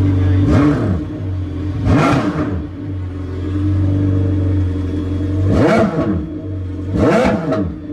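Yamaha FZR 1800 WaveRunner's engine idling, with four quick throttle blips that rise and fall in pitch, about half a second in, two seconds in, and twice near the end. The engine is running again now that the lost contact on its negative relay, the cause of the no-crank, no-start fault, has been fixed.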